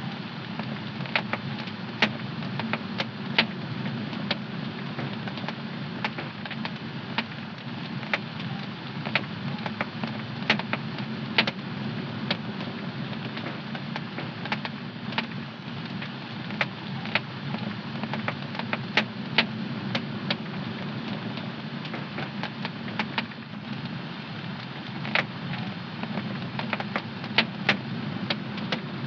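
Wood fire crackling in a fireplace: frequent, irregular sharp pops and snaps over a steady low rushing of the flames.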